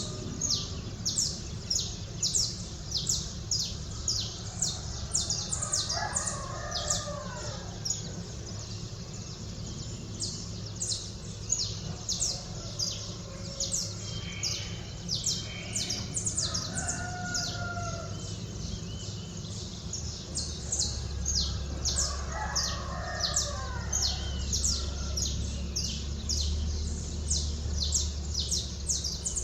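Small birds chirping rapidly and without pause, over which a rooster crows several times, each crow lasting a second or two. A low steady rumble runs underneath.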